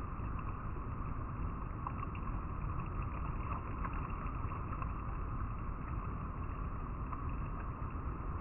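River water flowing and rippling over rocks, a steady, unbroken rush.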